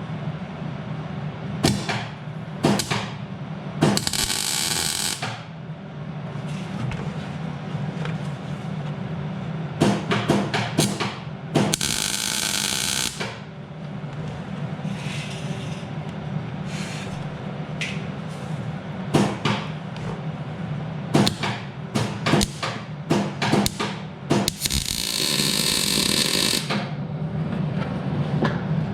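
Welder tack-welding a steel tube onto a mount: three crackling bursts of welding, each a second or two long, among sharp metal clicks and taps, over a steady low hum.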